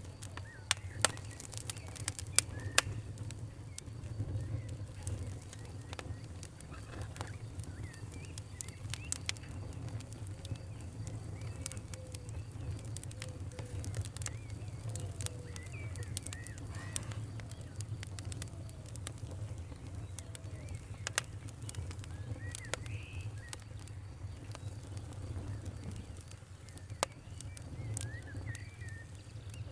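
Wood fire crackling, with sharp irregular pops over a low steady rumble; the loudest pops come a couple of seconds in and again around twenty seconds in. Birds call in the background.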